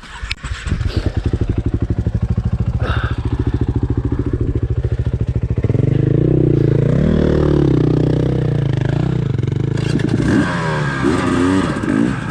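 Dirt bike engine firing up after a stall and idling with an even rapid chug, then revved and ridden off from about six seconds in, its pitch rising and falling with the throttle. A few knocks come just before it catches.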